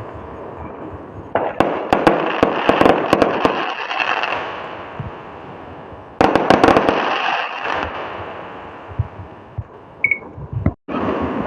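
Fireworks crackling: two bursts of rapid sharp pops, about a second and a half in and again about six seconds in, each dying away into a fading fizz.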